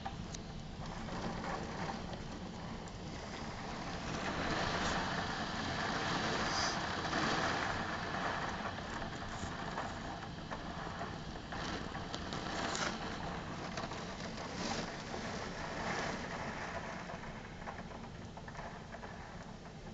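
Heavy rain falling in a thunderstorm: a steady rush of water that swells for several seconds a few seconds in and then eases, with scattered drips and splashes.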